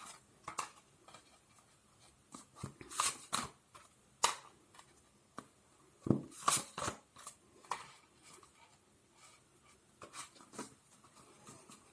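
Tarot cards being handled: scattered soft taps and rustles of cards slid and laid down, in irregular clusters.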